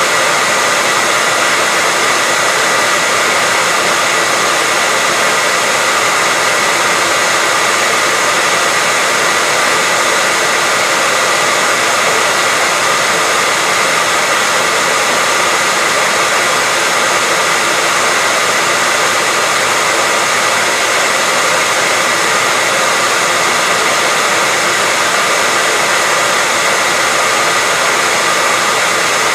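Electric hairdryer running steadily: an even rush of blown air over the motor's whine, with a faint steady tone in it and no change in speed.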